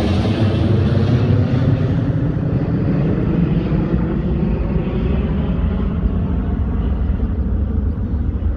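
Airliner climbing away after takeoff: a loud engine roar whose high hiss fades over several seconds as it recedes, leaving a low rumble.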